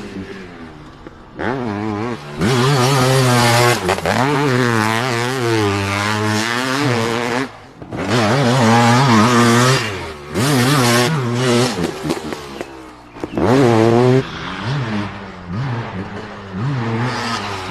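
Motocross dirt bike engines revving hard on the throttle, pitch climbing and dropping quickly as they accelerate and shift. The sound jumps suddenly louder several times.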